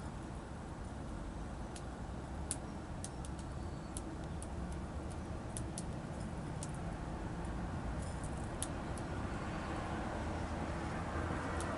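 Small birds at a seed feeder making scattered sharp, high ticks, over a steady low rumble of distant traffic that grows a little louder near the end.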